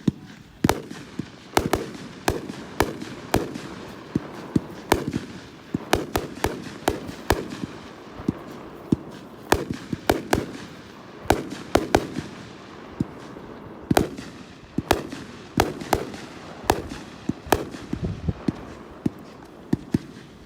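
A 36-shot Dominator Pro firework cake firing in sequence: dozens of sharp reports, about one or two a second, with crackling noise between them.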